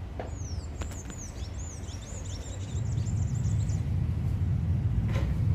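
A small bird twittering in a quick run of high chirps for the first few seconds, over a low rumble that swells about halfway through and is the loudest sound.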